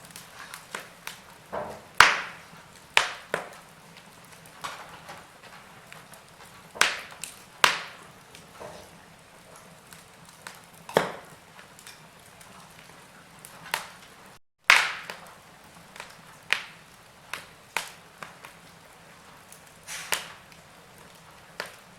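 Wood fire burning in a fireplace, crackling with irregular sharp pops and snaps over a low hiss. The sound drops out for an instant about two-thirds of the way through.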